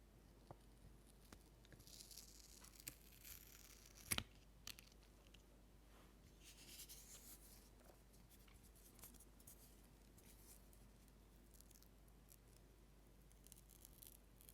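Faint close-up rustling and scratching, with scattered small clicks and one sharp click about four seconds in.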